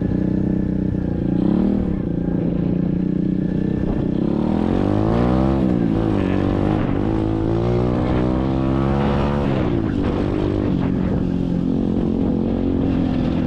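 SSR 125cc dirt bike's single-cylinder four-stroke engine running while ridden. It revs up and eases off twice in the middle, its pitch rising and falling with the throttle.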